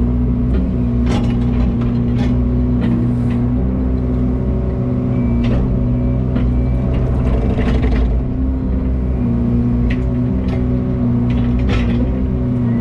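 Large heavy-equipment engine running steadily at an even speed, with scattered clicks and rattles over it.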